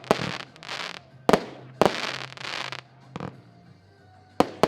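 Diamond Titan 75-shot firework battery firing: about five sharp bangs of shells bursting, each followed by a short hissing rush, with a lull of about a second before the last ones near the end.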